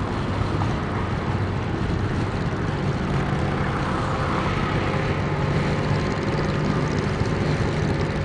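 Motorcycle engine running at road speed, with a steady hum of wind and road noise; the engine note rises a little about three seconds in.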